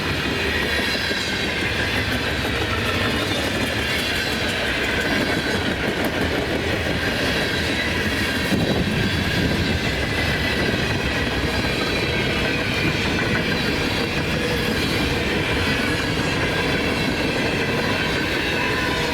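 Freight train cars rolling steadily past, a continuous rumble of steel wheels on rail.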